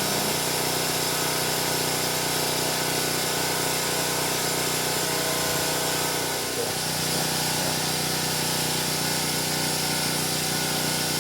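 A motor running steadily with a constant hum, shifting slightly about six and a half seconds in.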